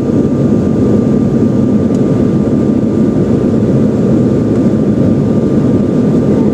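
Jet airliner cabin noise during the climb: the steady, loud roar of the engines and airflow, with a thin steady whine above it.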